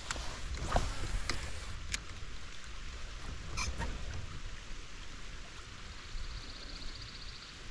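Rain and water noise on a wet, muffled microphone on a fishing kayak, with a few sharp clicks and knocks of gear being handled. A faint, fast rattling buzz comes in near the end.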